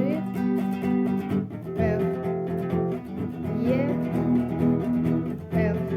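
Acoustic guitar strummed in a steady rhythmic pattern through the chorus chords of a song, the chord changing about two seconds in and again near the end.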